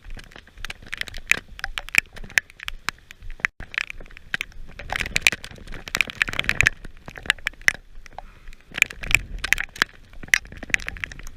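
Heavy rain: large drops striking close to the microphone as a dense, irregular patter of sharp ticks and crackles.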